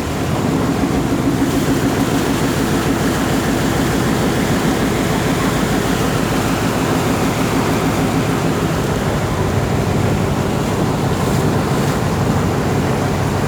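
Canal boat's engine running steadily, with a rush of water and wind, heard from on board.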